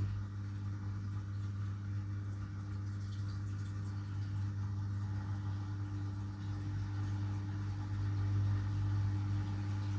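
Miele W1 front-loading washing machine running mid-cycle: a steady, even motor hum with no change through the stretch.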